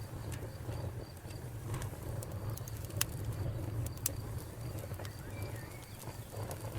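Wood fire burning: a steady low rumble with scattered sharp crackles, two louder pops about three and four seconds in.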